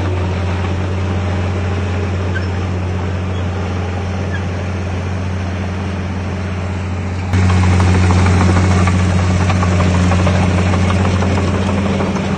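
Heavy diesel earthmoving machinery engine running steadily with a deep, even drone. It gets abruptly louder about seven seconds in.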